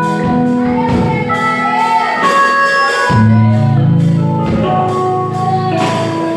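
Instrumental passage of a worship song played by a band: sustained chords over changing bass notes, with drum hits keeping the beat.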